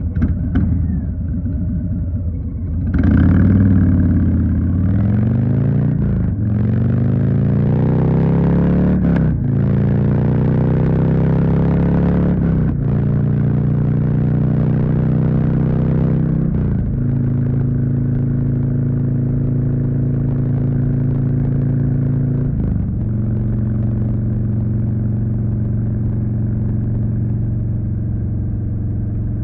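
2020 Harley-Davidson Street Bob's Milwaukee-Eight 107 V-twin running low, then pulling away about three seconds in. Its note rises in steps through several gear shifts, then settles to a steady cruise.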